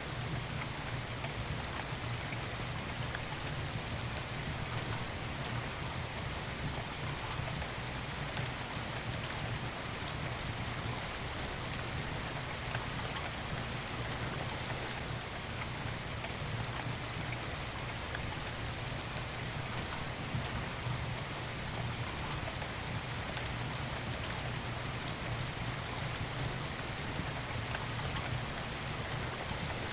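Steady rain falling: a continuous, even hiss of drops with no letup, and a couple of faint clicks partway through.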